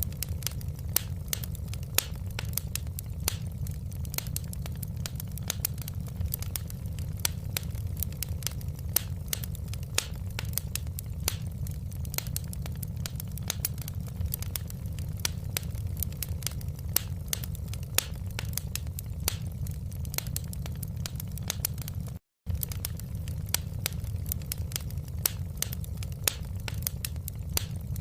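Wood fire crackling in a fireplace: a steady low rumble of flame with dense, irregular sharp pops and snaps. About three-quarters of the way through, the sound drops out for a split second.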